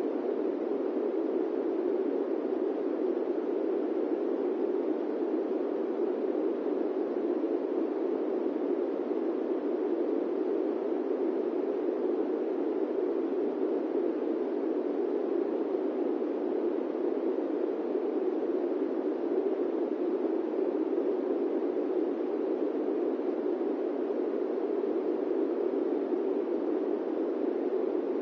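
Steady, unchanging rushing noise of an airplane cabin, even and whooshing, with no tones or events.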